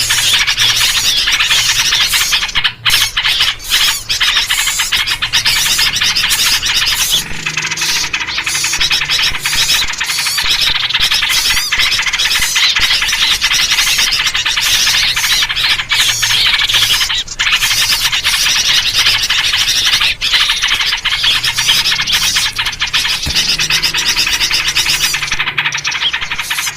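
Dense, unbroken chatter of many small songbirds calling over one another, a noisy bird-lure mix built on yellow-vented bulbul (trucuk) calls.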